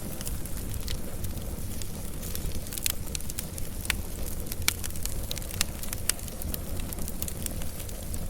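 Fire burning: a steady low rush of flames under frequent sharp crackles and pops, with the loudest pops around the middle.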